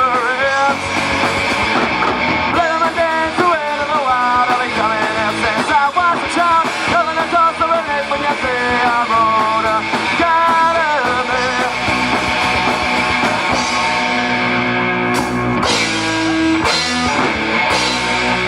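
Live rock band playing: electric guitar and drum kit, with a wavering melody line over the band for the first two-thirds, then steadier held chords.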